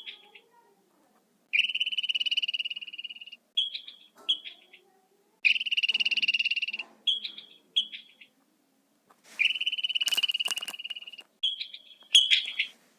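An animal calling in high, rapid pulsed trills: three long trills of about two seconds each, with short chirps between them. A few sharp clicks come about ten seconds in.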